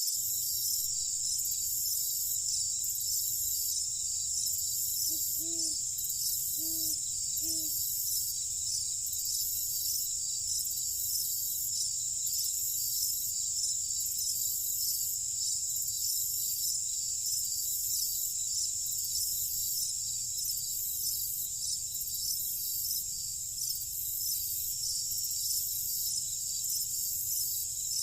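Night chorus of crickets chirping, a steady high-pitched trill with a regular pulse. About five to eight seconds in, three short low calls sound beneath it.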